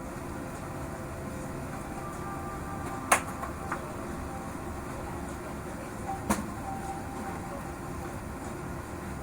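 Steady low rumble of a Boeing 787-9 cabin as the jet taxis to the gate after landing, with two sharp knocks, about three seconds apart.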